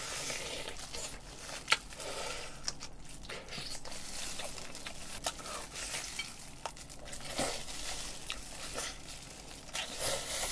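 Close-up biting and chewing of a crispy fried chicken drumstick: the breaded crust crackling and crunching, with scattered sharp crunches.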